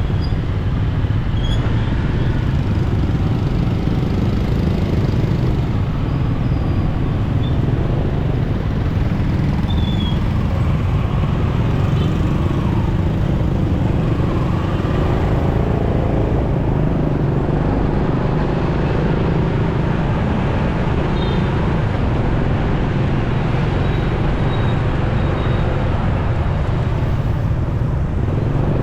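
Motorcycle riding through road traffic: steady engine and road noise, with other vehicles around and an engine's pitch rising and falling in the middle.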